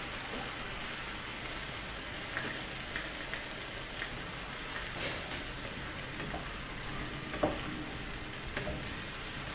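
Beronok and vegetables frying in a wok in a cornflour-thickened sauce, sizzling steadily, with a few light clicks as the utensil stirs against the pan.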